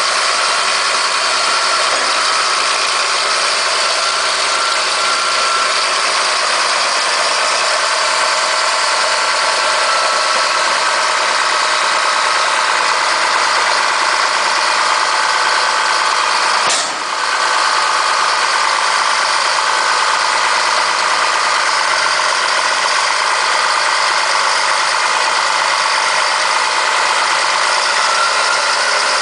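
Caterpillar D7H bulldozer's six-cylinder diesel engine running steadily at idle, with one momentary dropout a little past halfway.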